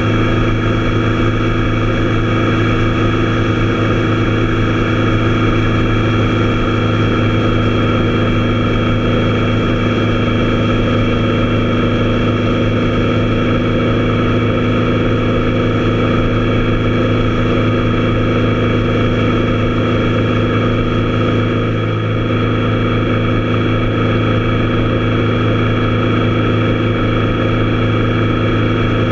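Triumph Tiger Explorer's three-cylinder engine running at a steady, unchanging speed, a constant engine drone, with a brief slight dip about three quarters of the way through.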